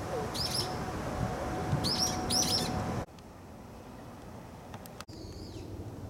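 Birds chirping, with quick clusters of short, high calls in the first half and a single call near the end. The background drops suddenly about halfway through.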